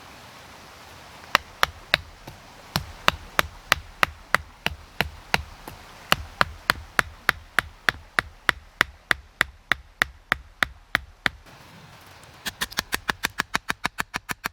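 A steady series of sharp knocks, about three a second, like repeated blows of a tool on wood. Near the end they give way to a faster run of about eight a second.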